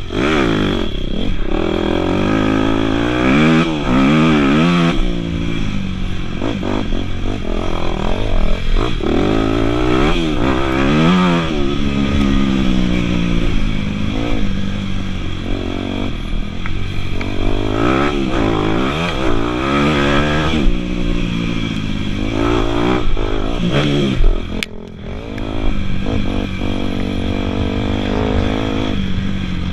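Dirt bike engine revving hard and easing off again and again while being ridden, its pitch climbing and falling with each throttle and gear change. A brief drop in the engine sound comes about three-quarters of the way through.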